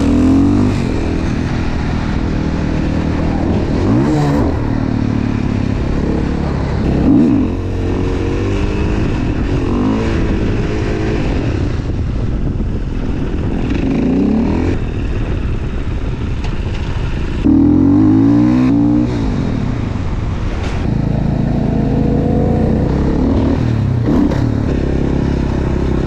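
Supermoto dirt bike engine running and being revved repeatedly, the pitch rising and falling back every few seconds, with the biggest rev about two-thirds of the way through.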